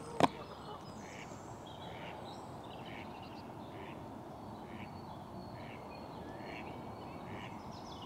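A sharp knock just after the start, then a bird giving a short call over and over, about once a second, over a steady outdoor background hiss.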